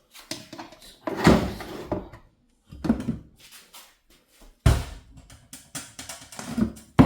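Refrigerator cleaning sounds: a series of knocks and clunks as the fridge, its shelves and its contents are handled, spaced a second or two apart.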